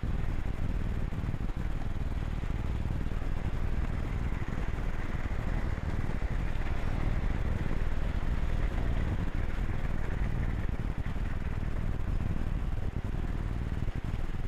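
Hornby Dublo 3-rail model train running on its track, a steady motor whir with wheel rumble and clatter, heard from a camera carried on the train.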